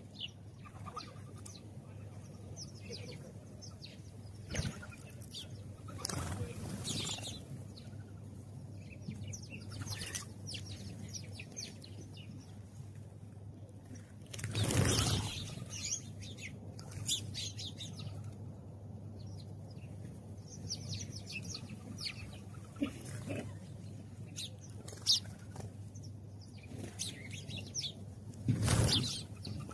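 House sparrows chirping in many short, high, repeated notes, with several bursts of wing flapping. The loudest burst comes about halfway through, another near the end.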